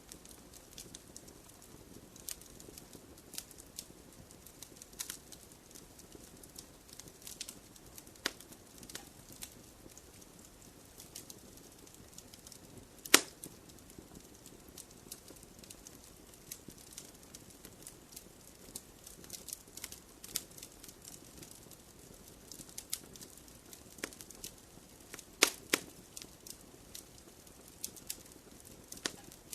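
Wood fire in a fireplace crackling, with irregular sharp pops and snaps over a low steady hiss; one loud pop about halfway through and a quick cluster of pops near the end.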